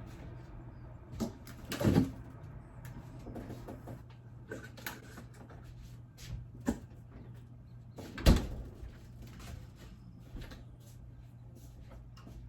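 A series of knocks and clunks, like cupboard doors or objects being handled, over a low steady hum. The loudest come about two seconds in and about eight seconds in.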